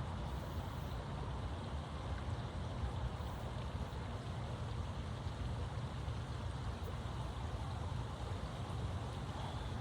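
Steady outdoor background noise: an even low rumble with a faint hiss over it, with no distinct events.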